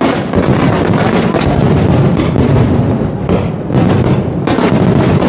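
Dense barrage of aerial firework shells bursting, many bangs a second running together with crackle; fresh heavier volleys hit at the start and twice more near four seconds.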